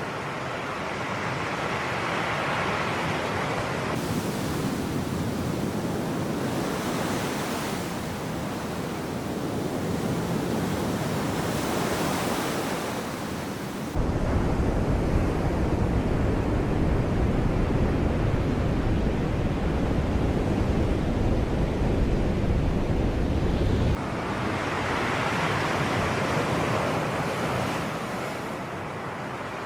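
Sea waves washing in and drawing back, swelling and easing in a slow rhythm. About halfway through, a deep rumble of wind on the microphone sets in suddenly and cuts off about ten seconds later.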